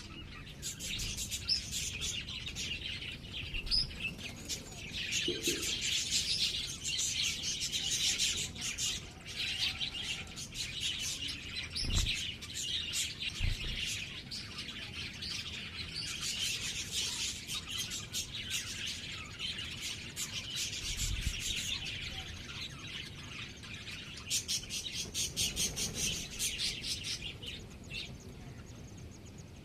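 Small birds chirping continuously in rapid, high-pitched twitters, with a few brief low thumps.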